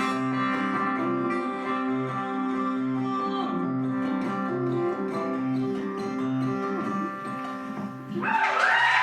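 Acoustic guitar playing the closing bars of a country song, with a steady strummed rhythm and a low bass note about every two-thirds of a second, until it stops about eight seconds in. Audience applause breaks out right at the end.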